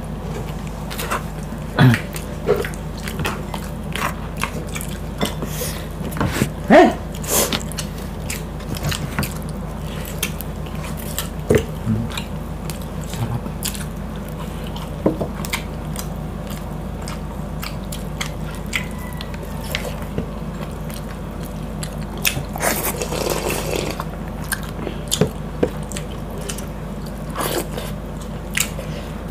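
Close-miked eating sounds of two people eating pork on the bone and rice with their hands: chewing, biting and wet mouth clicks in irregular short bursts, with a longer noisy stretch a little after twenty seconds in. A steady low hum sits underneath.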